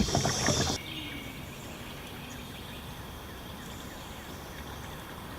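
Voices and noise cut off abruptly under a second in, leaving quiet, steady outdoor background noise with faint chirping.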